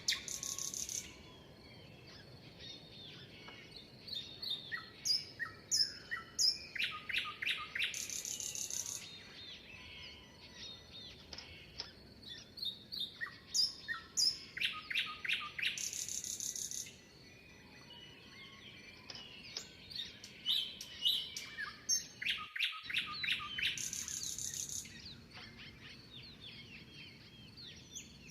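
Birdsong: several birds chirping and trilling. A loud, fast trill of rapidly repeated notes comes back about every eight seconds, with softer chirps and short whistled phrases in between.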